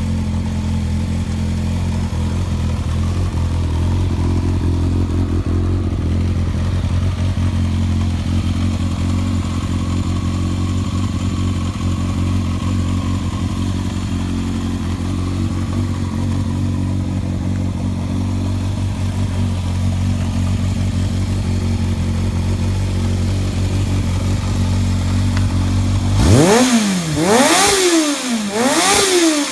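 Yamaha XJR400 inline-four motorcycle engine idling steadily, then revved in several quick blips near the end, the pitch rising and falling with each one.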